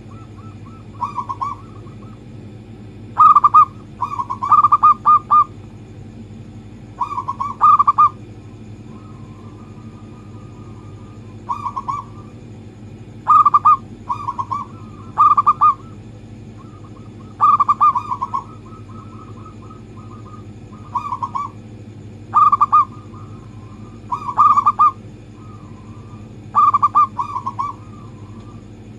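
Zebra doves (perkutut) cooing: short phrases of quick staccato notes repeated every second or two, played as a lure song to get a kept dove singing.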